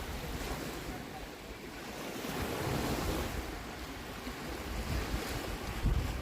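Baltic Sea waves washing on the shore, swelling and easing, with wind buffeting the microphone in low rumbling gusts, the strongest near the end.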